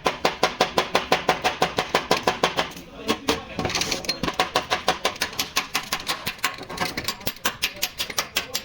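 Hammer blows on car body sheet metal, a fast even run of about four to five sharp, ringing strikes a second, as in panel beating out accident damage. About three seconds in, the strikes are briefly overlaid by a short rasping noise.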